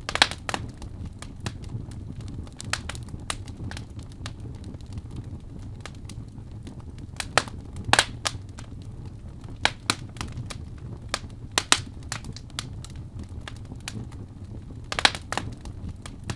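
Wood fire in a fireplace crackling, with irregular sharp pops over a low steady rumble of the flames. The loudest pops come just after the start, about halfway through and near the end.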